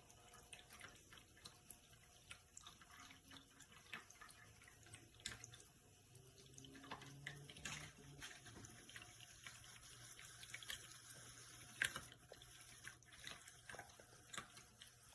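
Small tabletop indoor fountain running faintly: water trickling and dripping over its resin rockery in many small irregular drips.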